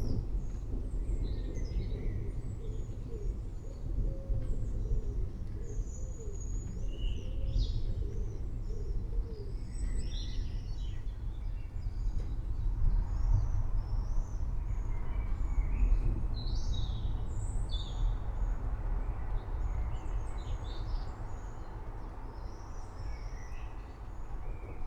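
Many small birds chirping and calling in short, scattered notes over a steady low rumble of a rainstorm ambience.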